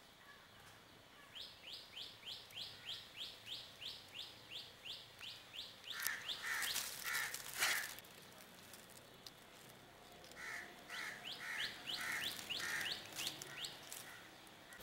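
Birds calling: a run of quick, repeated high chirps, about three a second, then a few louder, harsher calls. The same sequence comes again after a short pause.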